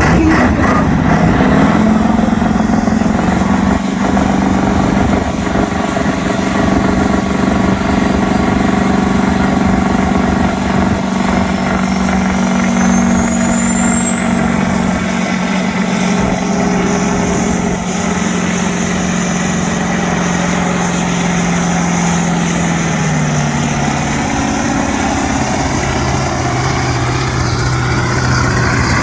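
Competition pulling tractor's engine running hard at steady high revs, with a thin high whine that climbs over several seconds, holds, then slowly falls. The engine note drops to lower revs about three-quarters of the way through.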